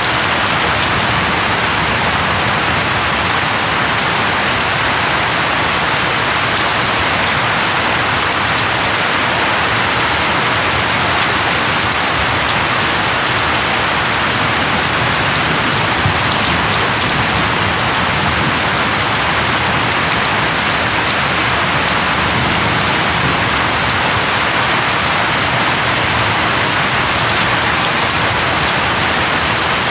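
Steady rain falling on surfaces: a dense, even patter of drops that doesn't change.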